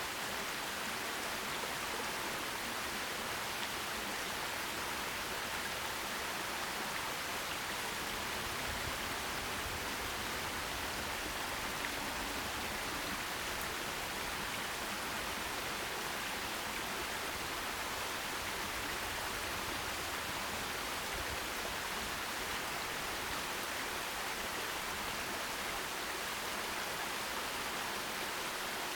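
A forest stream running, a steady, even rush of flowing water that does not change.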